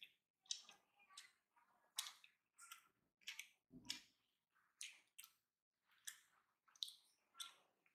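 Close-miked chewing of a mouthful of rice: a string of separate wet clicks and lip smacks, about one or two a second, with a soft low thump about four seconds in.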